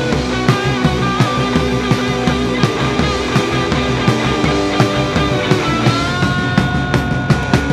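Live rock band playing an instrumental passage: guitar over drums keeping a steady beat, with a single guitar note held from about six seconds in.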